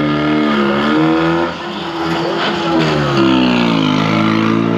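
Vintage car engine revving, its pitch rising and falling, dipping about three seconds in and climbing again near the end.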